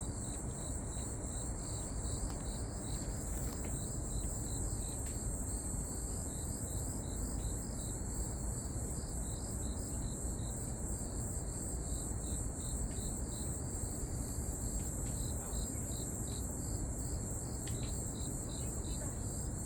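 Grass insects (crickets) singing: a continuous high trill with a pulsed chirp repeating a few times a second, over a low steady rumble.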